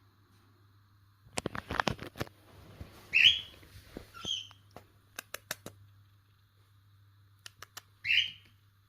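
Pet bird giving three short, high chirps, the loudest about three seconds in and another near the end, among sharp clicks and taps that come in a quick cluster just over a second in and then scattered.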